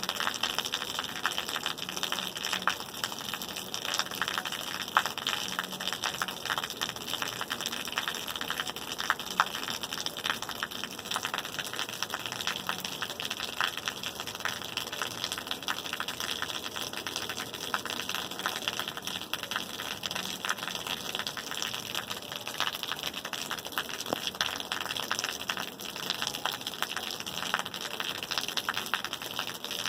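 Steady rain falling: an even hiss dotted with many small drop clicks.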